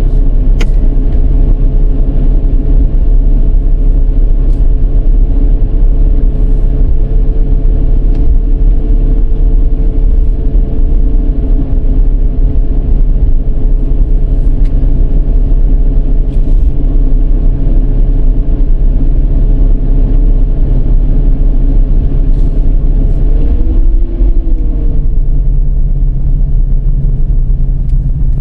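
Dodge Charger's 3.5-litre V6 and tyres in a steady low rumble while driving, with a brief rise and fall in pitch near the end and a few faint clicks.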